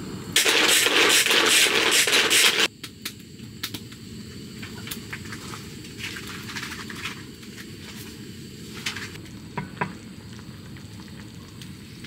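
Meat sizzling loudly in a hot pan for about two seconds, then cutting off abruptly. After that the sound is quieter, with scattered clicks and clinks of cooking utensils.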